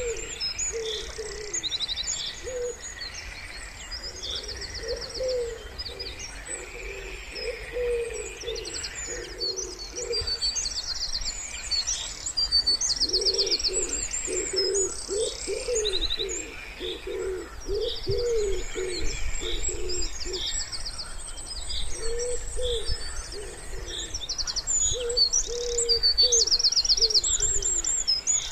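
Wood pigeons cooing in low repeated phrases, thickest in the middle, over small songbirds chirping and trilling high above.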